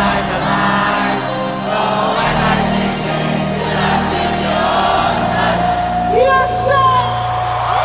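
Live pop concert music over a stadium sound system, with singing and many voices singing along.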